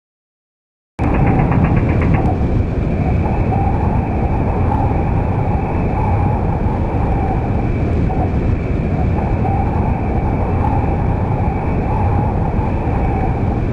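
Steady loud rumbling noise with a faint continuous hum, like a vehicle or aircraft running; it cuts in after about a second of dead silence at the start.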